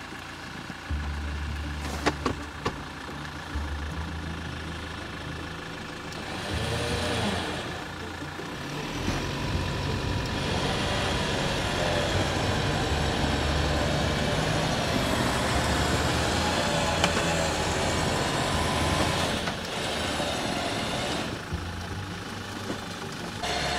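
A motor vehicle's engine running steadily, growing somewhat louder about ten seconds in.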